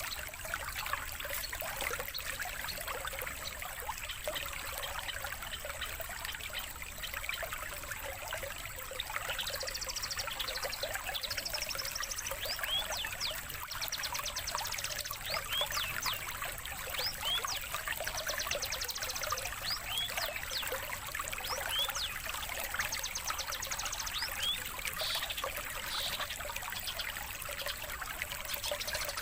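Songbird calls, short whistled sweeps and rapid buzzy trills, begin about a third of the way in and repeat over a steady sound of trickling water.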